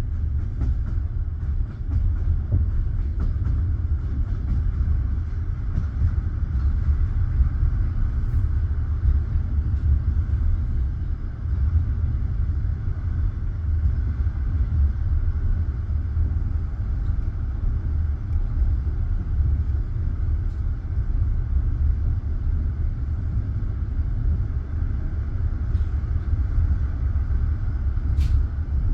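Passenger train carriage rolling along the track: a steady low rumble of wheels on rails, with only a few faint clicks.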